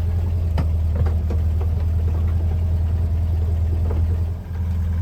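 Air-cooled 1641 cc flat-four engine of a 1971 VW Westfalia bus idling steadily, with a few light clicks over it and a brief dip in level about four and a half seconds in.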